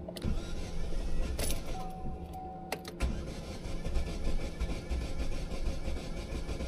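Chevrolet Orlando 1.8 F18D petrol engine being cranked on the starter motor, turning over without catching. A short first crank is followed by a longer one from about three seconds in: the car's hard-starting fault, with the engine refusing to start.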